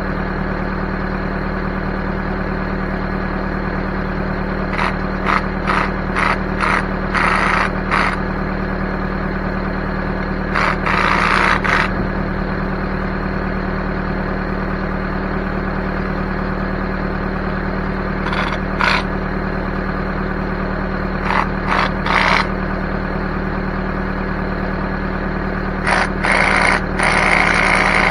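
Backhoe engine running steadily, with short bursts of hissing or scraping noise breaking in several times over it.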